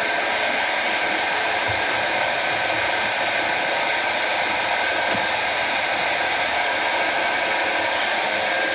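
Jet TL-25 lathe running steadily, an even whirring hiss with a few steady high tones.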